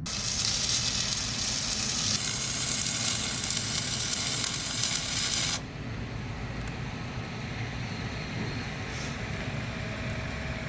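Electric arc on steel plate sizzling and hissing steadily, loud for about five and a half seconds. It then cuts to a quieter steady hiss.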